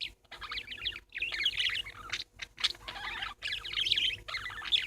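Pet parakeets chattering and warbling: dense, rapid high chirps in bursts, broken by a few short pauses.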